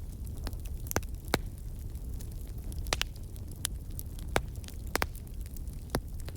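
Wood fire crackling in a fireplace: sharp pops and snaps, about one a second, over a steady low rumble of burning.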